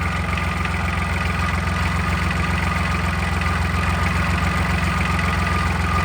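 Homemade tractor's diesel engine idling steadily with an even, fast low pulse.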